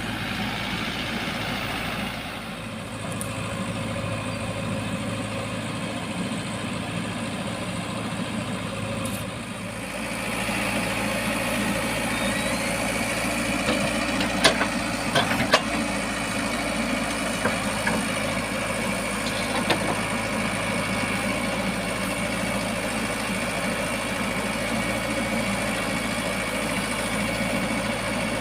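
Diesel engine of earth-moving machinery running steadily. It gets louder and higher about ten seconds in, and a few sharp knocks come about halfway through.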